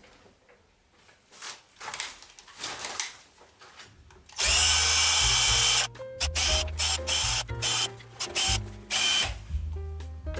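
A power tool runs in short bursts, with one loud burst about four and a half seconds in lasting about a second and a half, mixed with music that has a stepping bass line.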